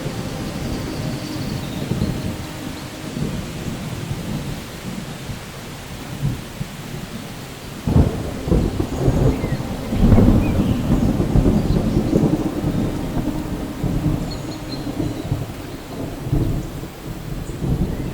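Steady rain with rolling thunder. A sharp thunderclap comes about eight seconds in, then a louder rolling rumble from about ten seconds on.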